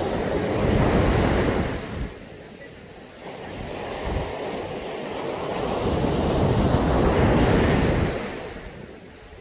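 Caribbean sea waves breaking on a beach: two surges of surf, a short one that fades about two seconds in, then a longer one that builds slowly, peaks, and washes away near the end.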